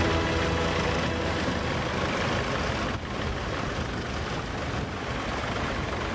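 Tractor engines running, a steady, noisy mechanical sound with a brief dip about three seconds in.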